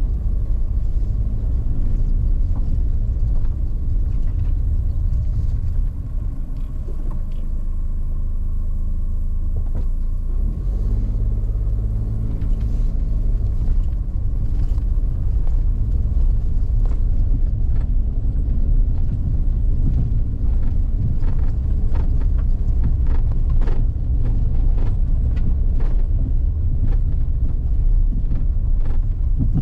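A motor vehicle driving: steady low engine and road rumble, with the engine note rising and falling now and then and scattered short ticks and knocks.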